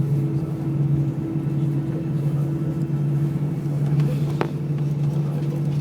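Steady cabin drone of an Airbus A320 on the ground after landing: engine and airflow noise with a strong low hum.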